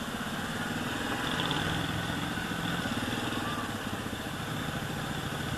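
ATV engine running steadily, a pulsing drone whose pitch wavers slightly.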